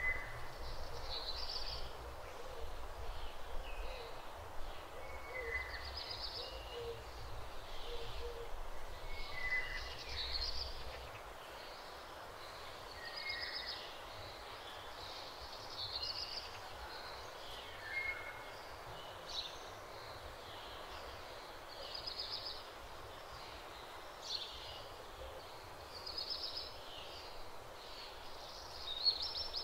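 Small birds calling over and over, short high chirps a second or two apart, over a faint steady hiss. A low rumble underneath stops about a third of the way through. No cow mooing is heard.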